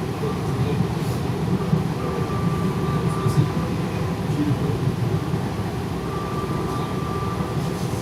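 Inside a carriage of an Alstom series 8900 electric multiple-unit train: a steady low rumble of the train's running gear. A thin high tone comes in for a second or so and fades out, twice.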